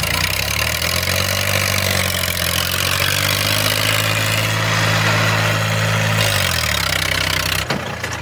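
Eicher 333 tractor's three-cylinder diesel engine revved up within the first second, held at high revs for about five seconds, then dropping back down to idle near the end.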